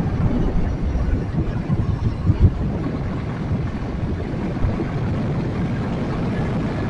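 Riding noise from a motorcycle on the move: wind buffeting the microphone over the low drone of the bike and the road. Brief louder thumps come about two and a half seconds in.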